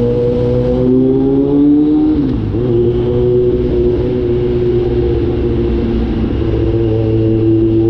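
Kawasaki Z900 inline-four engine and cat-deleted exhaust under way, pulling up through the revs, then dropping in pitch at an upshift about two seconds in. After the shift it holds a fairly steady cruise with a slow rise in revs.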